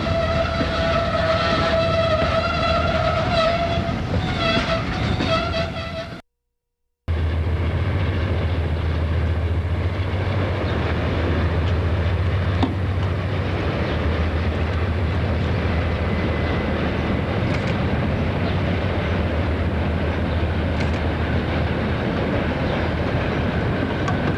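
Diesel freight locomotive air horn sounding for about six seconds. After a brief cut, a steady low rumble of the locomotives running.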